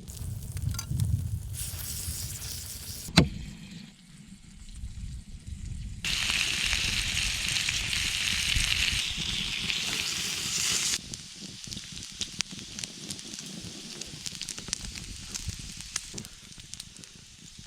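Food sizzling on a hot cooking stone at a campfire: a sharp knock about three seconds in, a loud steady sizzle for about five seconds in the middle, then the fire crackling with many small pops.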